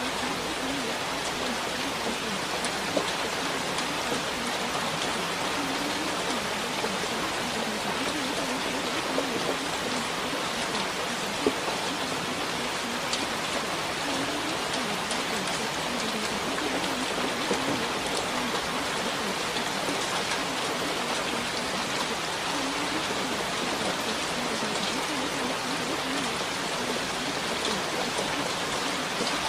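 Steady rain falling: an even hiss with scattered drop ticks, one of them sharper about eleven seconds in.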